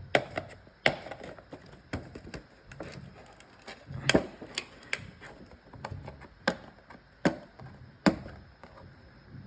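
A cardboard box and its packaging being handled and opened by hand, giving an irregular string of sharp clicks and taps, about a dozen.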